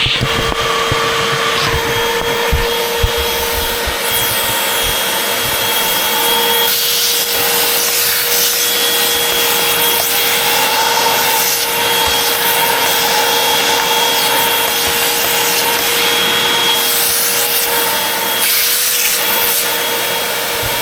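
Upright vacuum cleaner, model UH70605, running steadily with a constant motor whine as it is pushed over the floor, the suction sound shifting a little as it moves.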